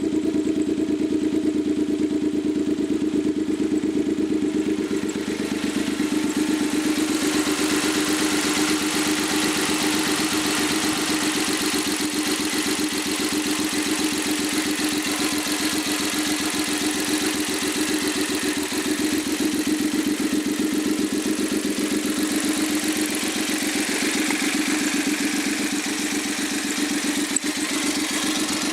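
Suzuki K6A 658 cc three-cylinder engine running steadily on a test stand without its turbocharger fitted, its firing pulses even; a brighter hiss joins in a few seconds in.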